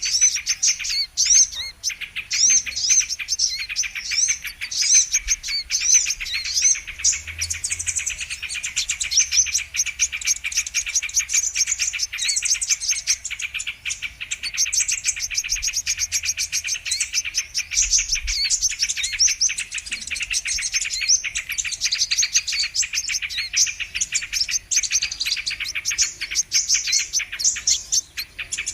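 Brown-throated sunbirds (kolibri kelapa) calling in a rapid, unbroken stream of thin, high chirps with no pauses, played as a bird-trapping lure recording.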